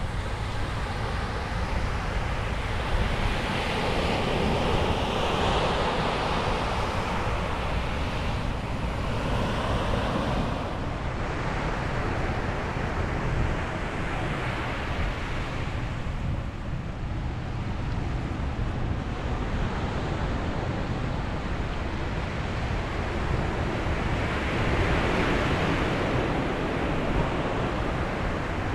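Ocean waves breaking and washing on a beach, the surf swelling louder every several seconds, over a steady low rumble of wind on the microphone.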